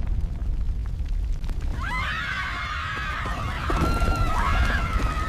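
Deep continuous rumble of a volcanic eruption. A high, drawn-out scream starts about two seconds in, holds for about three seconds and falls away at the end.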